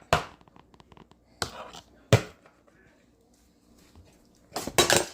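Hard tableware knocking sharply on a table: three separate knocks, then a quick flurry of them near the end.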